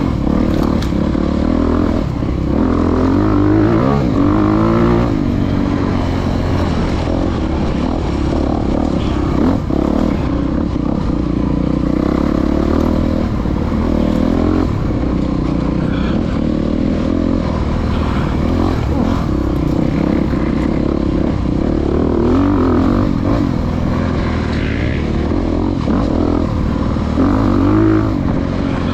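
Off-road motorcycle engine ridden hard through a woods race course, the revs rising and falling repeatedly as the rider works the throttle.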